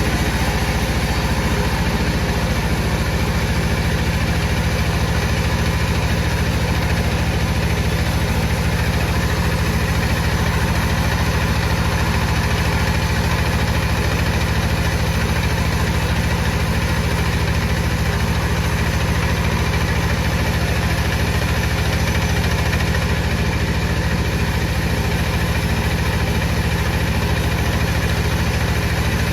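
Wood-cutting saw machinery running steadily, a constant low hum that does not change in pitch or level.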